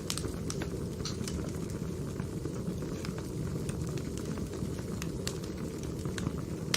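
Firewood fire burning: a steady low rumble with irregular sharp crackles and pops of the burning wood, a louder pop near the end.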